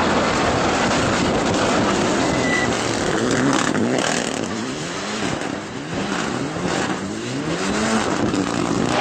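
Rally car engine at full throttle, its pitch climbing and dropping back several times as it shifts up through the gears, over a steady rush of tyre and wind noise.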